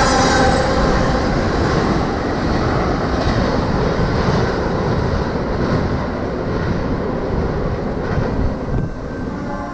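Train passing close by: a dense, steady rumble and rail noise of the cars going past, easing off slightly towards the end. A locomotive horn blast dies away in the first half second.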